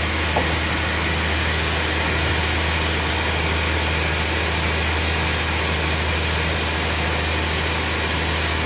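Band sawmill running steadily: a constant low motor hum under a broad, even hiss of machinery.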